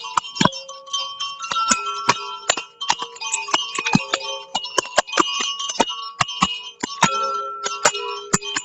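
Chimes struck in quick, irregular succession, several strikes a second, each ringing on with clear pitched tones that overlap into a shimmering wash.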